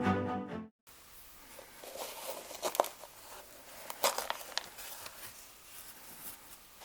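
Intro music cutting off in the first second, then faint handling sounds: light rustling with a few short clicks and taps, about two and a half seconds in and twice around four seconds.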